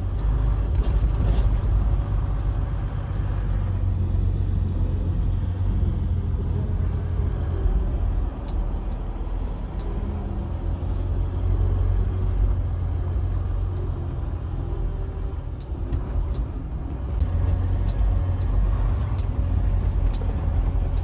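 Semi-truck's diesel engine running with a steady low rumble, with a few faint clicks over it.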